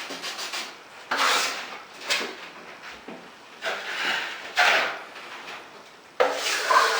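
Steel trowel scraping and swiping drywall joint compound across a hawk to gather the mud together, in a handful of separate scraping strokes.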